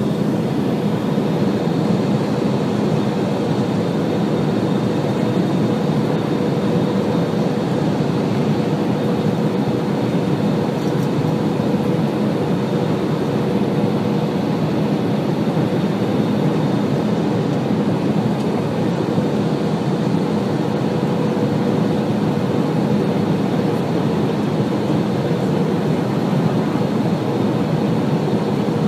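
Airbus A320-200 airliner on its landing approach: the steady, even rumble of engines and airflow, with a constant low hum running through it.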